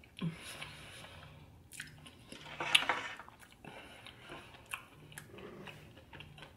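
Close-miked chewing and biting of food, soft wet mouth sounds and small clicks, with one louder bite about three seconds in.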